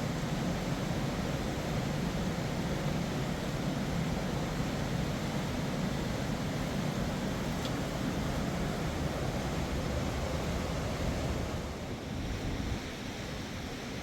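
Steady rushing of a fast mountain river, with wind on the microphone adding a low rumble; it eases slightly near the end.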